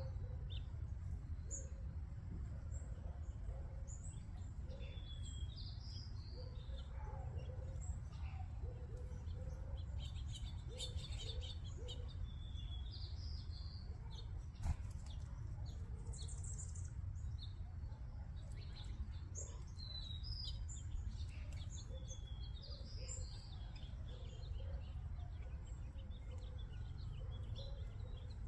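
Many backyard songbirds chirping and calling at a feeder, with one whistled song phrase repeated every several seconds, over a steady low rumble. A single sharp click sounds about halfway through.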